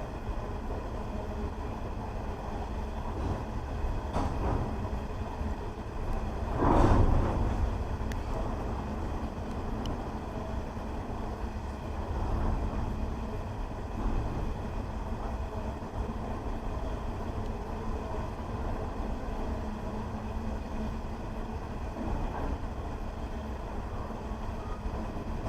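Freight train wagons rolling steadily past, a continuous low rumble of wheels on rail. One brief louder surge comes about seven seconds in.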